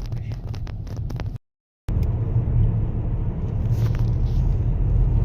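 Steady low road rumble of a moving car heard from inside the cabin. It drops out abruptly for about half a second near the start, then resumes.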